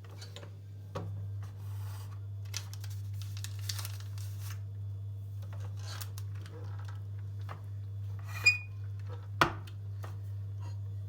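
Small kitchen handling noises: soft rustling and light taps, then two sharp clinks about eight and a half and nine and a half seconds in, over a steady low hum.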